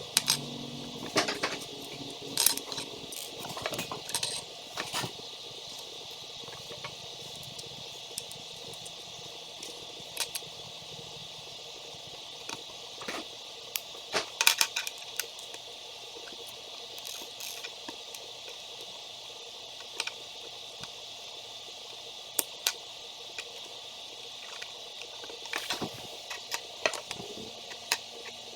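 Small toy construction pieces clicking and clattering as they are handled and snapped together, in irregular bunches of sharp clicks over a steady hiss.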